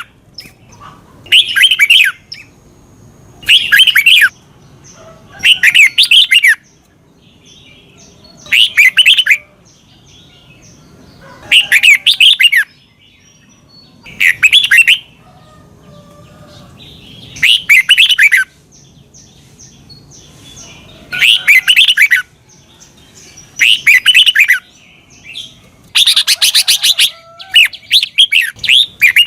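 Red-whiskered bulbul singing loud, short warbling phrases about a second long, repeated every two to three seconds, with a longer phrase near the end.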